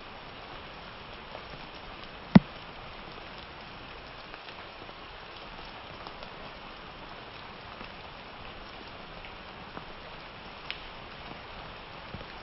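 Steady summer rain with scattered drops ticking on a surface, and one much louder sharp knock about two seconds in.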